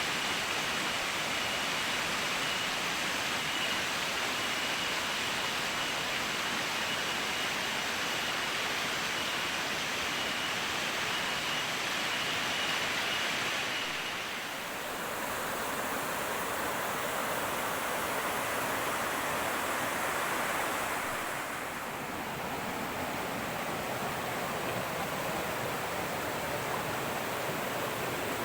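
Fast-flowing river rushing over rocks, a steady loud wash of water. A faint high steady drone of cicadas sounds over it through the first half. The water's tone shifts about halfway through and again a few seconds later.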